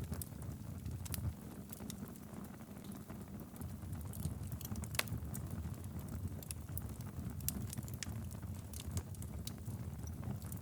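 Fireplace fire burning steadily: a low rumble of flame with irregular sharp crackles and pops from the burning wood, one louder pop about halfway through.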